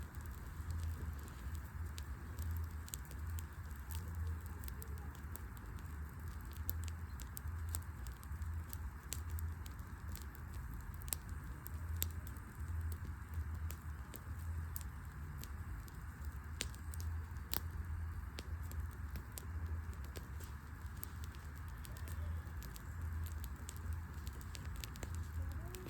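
Wood fire burning in an outdoor hearth, crackling with many sharp pops and snaps at irregular moments over a low, uneven rumble.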